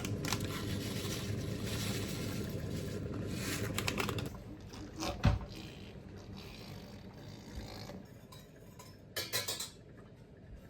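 Pickling liquid being poured into a glass jar of vegetables, a steady splashing pour for about four seconds, then a single knock and a short run of clinks near the end.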